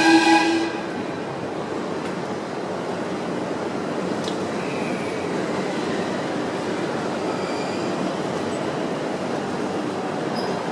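A 683-series limited express electric train pulling out. A short horn note ends under a second in, followed by steady running noise of the wheels and motors, with a few faint brief wheel squeals.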